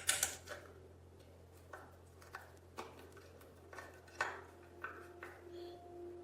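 Irregular light clicks and taps of small metal parts being handled, about ten over six seconds, the loudest about four seconds in. A faint steady tone comes in just after it.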